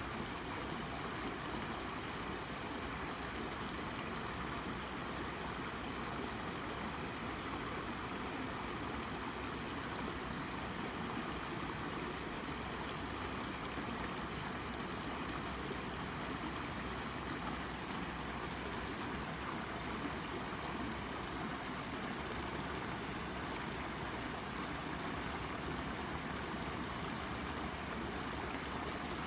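Shallow brook babbling and trickling over a rock, a steady, unbroken rush of water.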